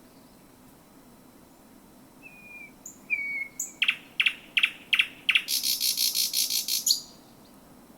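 Thrush nightingale singing one song phrase. Two short whistled notes come first, then about five loud, sharp clicking notes, then a fast, harsh rattling trill that stops abruptly.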